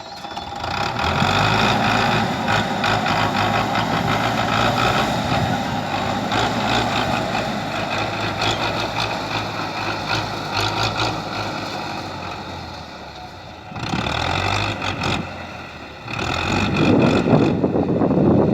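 Tractor diesel engine running under load. It grows louder about a second in, drops off past the middle, and picks up again near the end.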